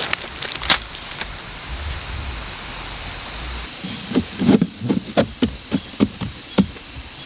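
Steady, loud insect chorus, a high shrill hiss. Partway through there is a quick run of about eight light knocks.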